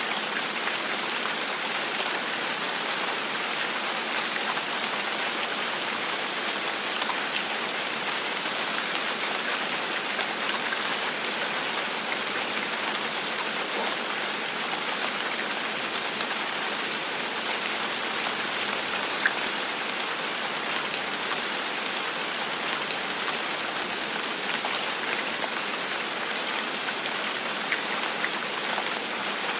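Steady gentle rainfall: an even hiss of rain with scattered individual drop ticks.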